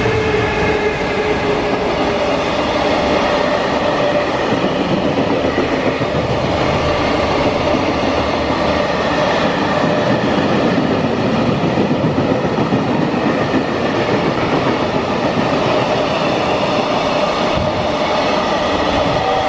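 Freight train running past on the rails, a loud, steady rush of wheels and wagons with clickety-clack and thin whining tones running through it.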